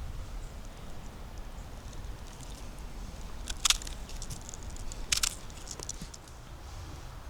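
Footsteps on the forest floor, with two sharp crackles of twigs or dry litter underfoot about three and a half and five seconds in, over a low steady rumble.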